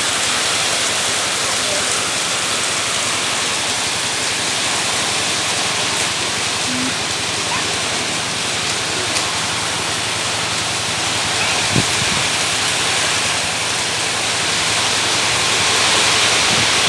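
Steady rain falling, an even hiss, with one brief knock about twelve seconds in.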